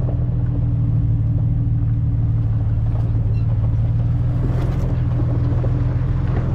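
A vehicle's engine running steadily at a constant pitch, with rumble from the road.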